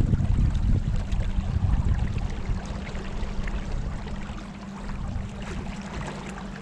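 River water rushing and lapping around a kayak, under a low, uneven rumble like wind on the microphone, easing off in the second half.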